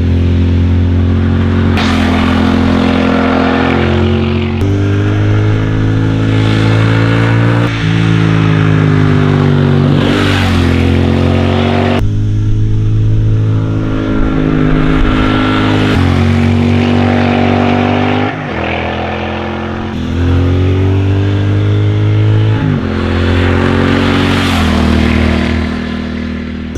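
Triumph Thruxton RS 1200 cc parallel-twin engine running under way. Its pitch jumps abruptly every few seconds as it changes gear, and it glides up and down between shifts.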